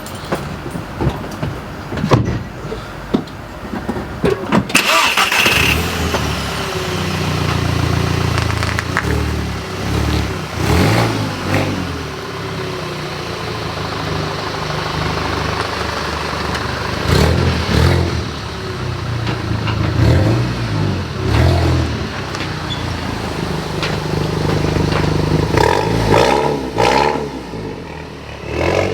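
Car engine starting, then running with repeated short revs that rise and fall, with a few knocks and clunks around the car in the first seconds.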